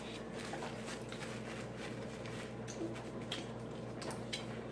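Quiet eating sounds: faint chewing and small scattered clicks of food and mouths, over a steady low hum in the room.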